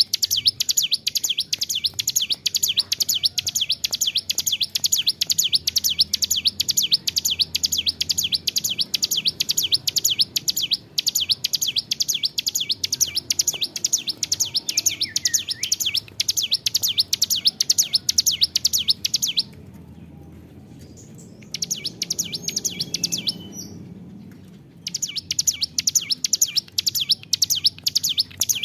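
Ciblek gunung (hill prinia) singing a long, unbroken string of rapid, high, repeated chirping notes, several a second, pausing twice for a couple of seconds about two-thirds of the way through before starting up again.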